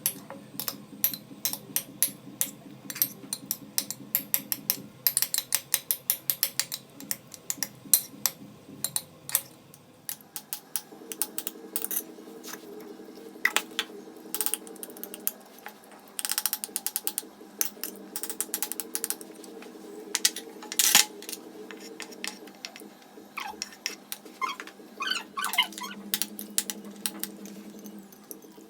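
Knife chopping vegetables on a cutting board: quick, irregular taps of the blade against the board, coming in runs with short pauses.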